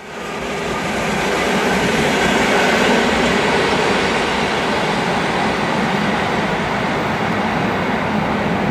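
EP20 electric locomotive hauling a double-deck passenger train on its approach: a steady rolling noise of wheels on rails, fading in over the first second.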